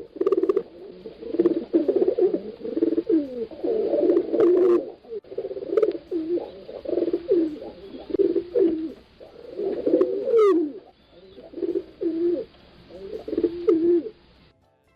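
Several pigeons cooing, their low warbling coos overlapping almost without a break, then a brief lull near the end.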